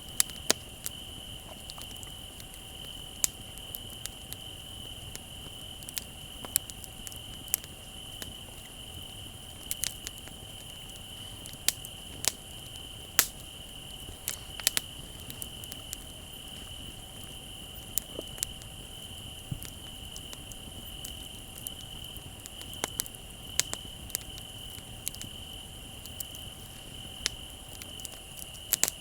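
Wood fire crackling, with sharp pops at irregular intervals, over a steady high-pitched trill of crickets.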